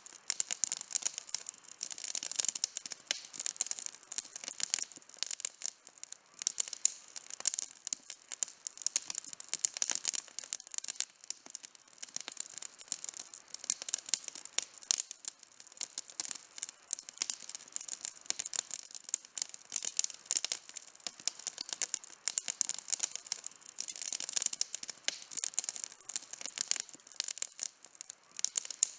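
Campfire burning, the wood crackling in a dense, unbroken run of small sharp pops and snaps. The crackle is light and high, with no low roar under it.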